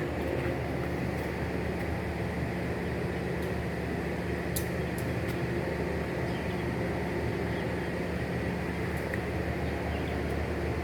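Steady running noise inside a train carriage: an even rumble with a low hum under it, and a sharp click about halfway through.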